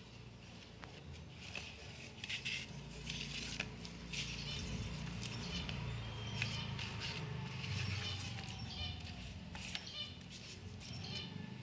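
Faint clicks, rustles and scrapes of cardboard being cut and handled for a model truck, over a low steady hum.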